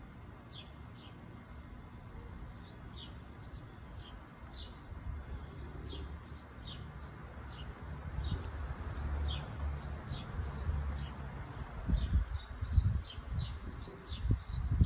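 A bird chirping over and over, short high calls about twice a second, over a low outdoor rumble. In the last few seconds heavy low thumps and buffeting come in, louder than the chirps.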